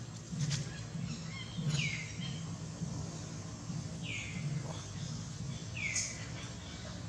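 A bird calling three times, about two seconds apart, each call a short note falling in pitch, over steady background noise.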